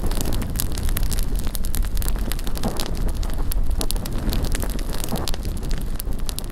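Bonfire burning with many sharp, irregular crackles and pops, over a low rumble of wind buffeting the microphone.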